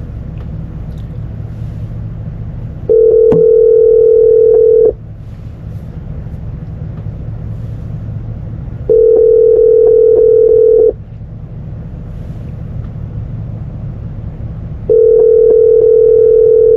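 Telephone ringback tone on an outgoing call, ringing while waiting for an answer: a steady tone about two seconds long, heard three times with about four seconds between rings. A low steady hum runs underneath.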